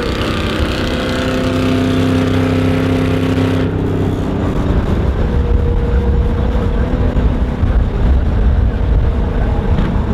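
Car on the move, its engine droning at a steady pitch over road and wind rumble. A little under four seconds in the sound changes abruptly: the high hiss drops away and a lower rumble carries on.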